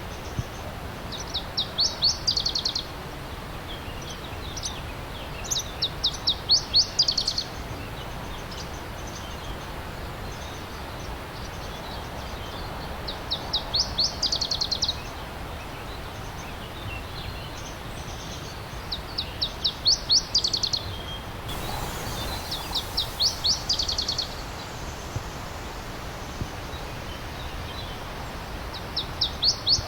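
A songbird repeatedly sings a short, fast series of high notes, about six phrases a few seconds apart, over the steady rush of stream water.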